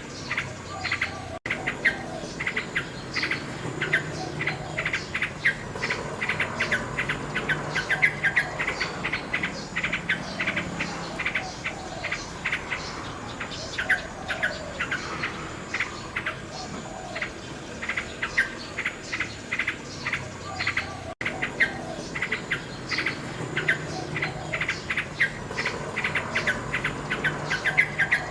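Common nightingale singing in rapid runs of chirps and trills over a steady chirping of insects. The sound cuts out for an instant twice.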